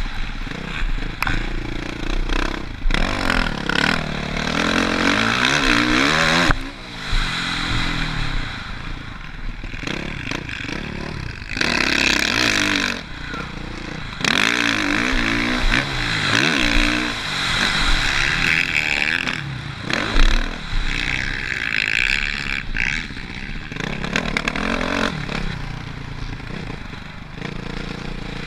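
Suzuki RM-Z450 single-cylinder four-stroke motocross bike ridden on a dirt track, its engine pitch rising and falling again and again as the throttle is opened and closed.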